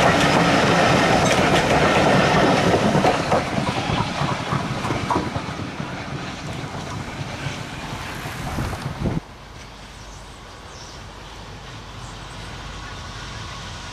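Heritage train passenger carriages rolling past close by, their wheels clicking over the rail joints, the sound fading gradually as the train draws away. About nine seconds in it drops abruptly to a much quieter, steady rumble.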